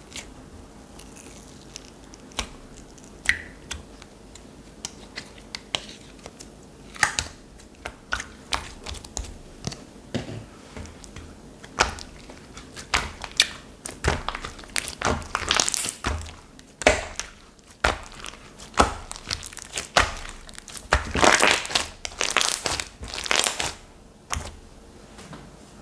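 Slime being pressed and pulled by hand, giving scattered sticky clicks and crackles that come thicker and louder from about halfway.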